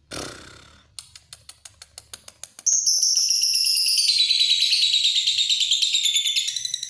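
Lovebird's long chattering song ('ngekek'). It opens with a short burst and a run of sharp clicks, about six a second. A little under three seconds in it breaks into a loud, rapid, high trill that carries on without a break.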